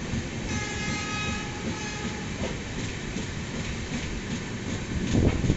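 Moving passenger train's wheels rumbling and clacking on the track, with a train horn sounding briefly for about a second and a half early on, then a few heavier clunks near the end.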